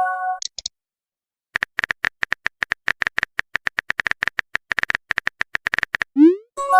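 Rapid phone-keyboard typing clicks, several a second, for about four seconds, then a quick rising swoosh of a message being sent and a chime of a few tones near the end. A chime ends just as the clip begins, with two short high blips right after it.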